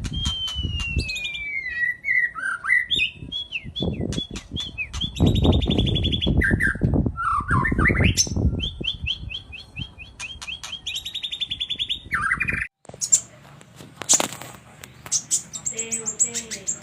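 Songbirds singing a varied run of chirps, trills and whistles, including a falling whistle and fast repeated notes, recorded as song for teaching captive birds ('masteran'). A heavy low rumble sits under the song at times, and about three quarters of the way through the sound cuts off abruptly and another bird-song recording begins.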